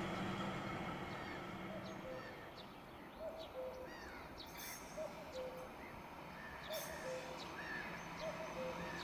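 Faint outdoor background with a bird repeating a short two-note call, the second note lower, about every second and a half, and a few brief higher chirps from other birds. A low rumble fades away in the first two seconds.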